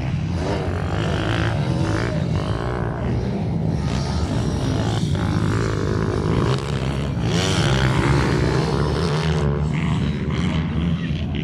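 Several minibike engines buzzing around a track, their pitch rising and falling as they rev and ease off.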